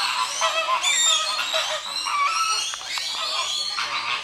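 A dense chorus of many birds calling over one another, with short overlapping calls throughout.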